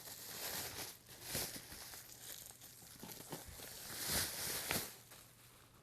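Packaging being handled, crinkling and rustling in irregular bursts, loudest about a second and a half in and again around four seconds in.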